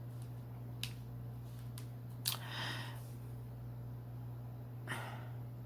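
Steady low electrical hum, with a few faint clicks and two short soft noises: one about two seconds in and one near the end.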